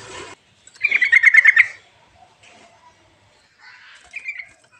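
Recorded songbird song: a hissy passage breaks off abruptly at a splice, then a bird gives a loud, rapid chattering run of about ten quick notes lasting about a second. A shorter, quieter phrase follows near the end.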